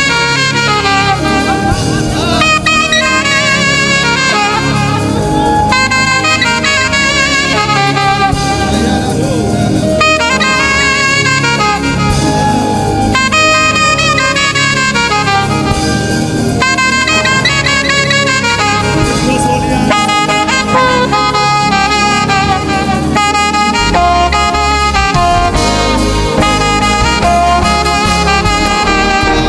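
Saxophone playing a flowing melodic lead over a live band backing of keyboard and rhythm section, in a gospel worship style.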